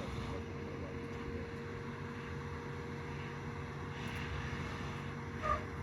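A vehicle running steadily, a constant drone with a mid-pitched hum, and a brief higher sound near the end.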